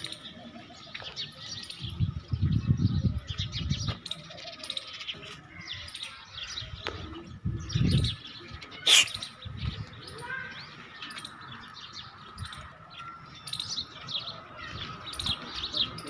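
Small birds chirping over and over. Several low rumbling bursts break in, the loudest from about two to four seconds in and again at about eight seconds.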